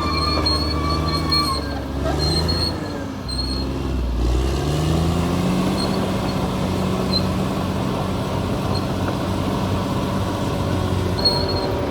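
Bulldozer's diesel engine running under load; its pitch sags about two to three seconds in, then climbs back and holds steady. Thin high squealing tones sound near the start and again near the end.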